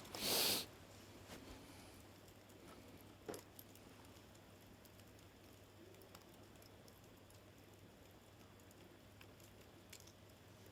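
Wood campfire crackling faintly, with scattered small pops and ticks and one louder hissing burst lasting about half a second right at the start.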